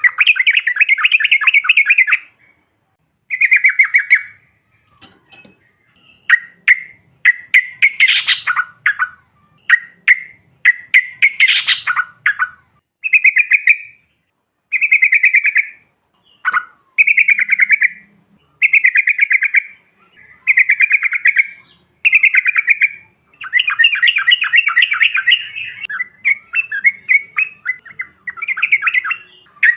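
Yellow-vented bulbul (trucukan) singing a series of rapid, bubbling trilled phrases, each a second or two long with short pauses between. A couple of the phrases around the middle are sharper and higher.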